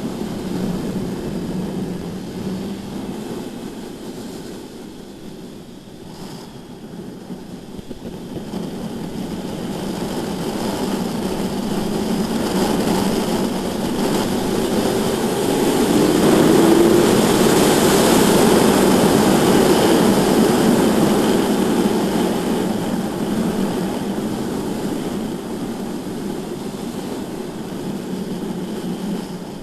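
Sport motorcycle at speed on a track, probably the 2015 BMW S1000RR's inline-four: engine and wind rush. It swells to a peak about halfway through as speed builds, then eases off.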